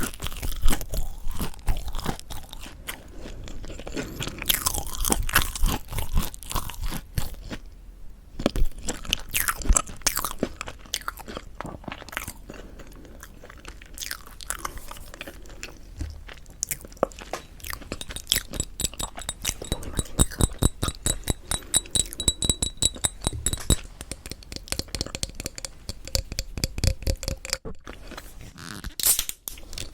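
Close-miked eating of crispy mocha bread: bites into the crisp crust and chewing, with many irregular sharp crunches.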